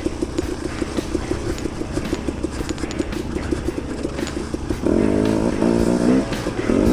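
A two-stroke dirt bike engine, a KTM 250 XC-W, running at low revs with an even pulsing beat. About five seconds in, a louder sound with wavering pitch comes in over it.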